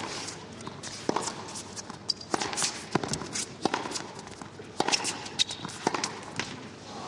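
A tennis rally: a ball struck back and forth by rackets, the strokes coming a little over a second apart, with players' footsteps on the court between them.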